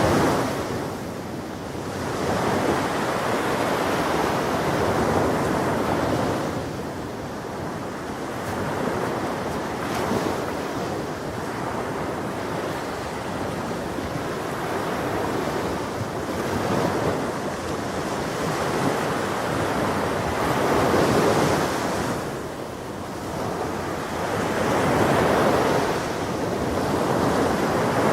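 Ocean waves breaking on a shore, a continuous wash of surf that swells and eases every few seconds.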